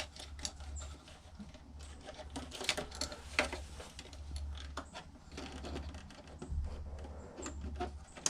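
Irregular light clicks, taps and clatter of small metal and plastic parts being handled while a karaoke machine is taken apart, over a steady low hum.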